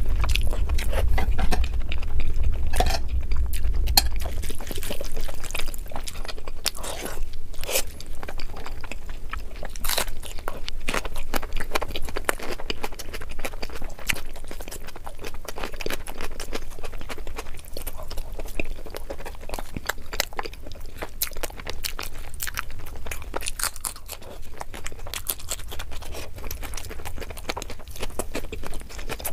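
Close-miked eating of chicken curry by hand: chewing and biting with a dense run of short crunches and mouth clicks. A low rumble runs under the first few seconds.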